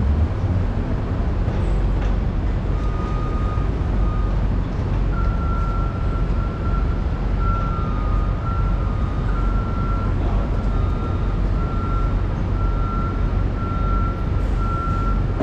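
Steady low rumble of heavy city traffic, with a thin high-pitched tone sounding in short repeated stretches through the second half.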